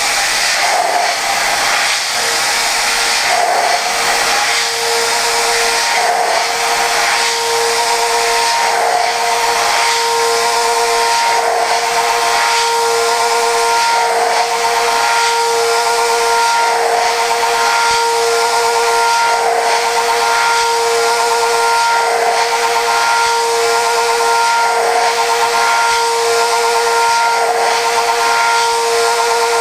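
Okuma GENOS M560V vertical machining centre milling prehardened 4140 steel at high speed with a Sandvik Coromant cutter: a steady high singing tone from the cutting over a loud even hiss. The sound swells and eases about every two to three seconds as the cutter runs through repeated passes of the toolpath.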